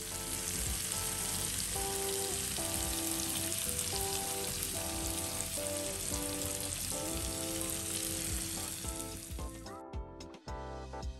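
Egg masala sizzling steadily as it fries in oil in a pan, over background music with sustained notes. The sizzle cuts off suddenly about a second before the end, leaving only the music.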